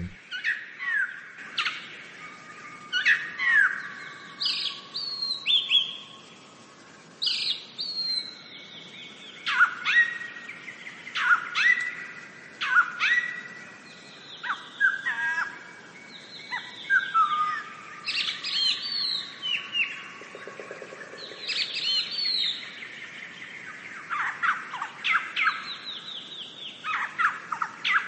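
Several birds chirping and whistling: many short, clear calls, most of them sweeping downward in pitch, overlapping and repeating.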